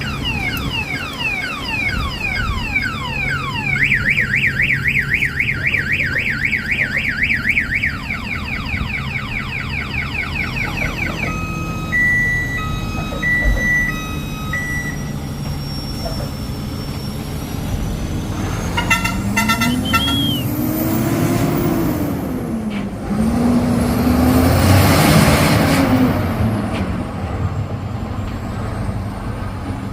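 Electronic alarm-style siren cycling through its tones (falling sweeps, then a fast warble, then on-off beeps) over a truck engine running steadily. In the second half the truck engine revs up and down twice.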